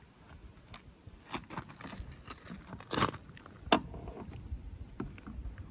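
Irregular clicks, light knocks and scraping of small parts being handled on a push mower engine, with the sharpest knocks about three seconds in and again shortly after.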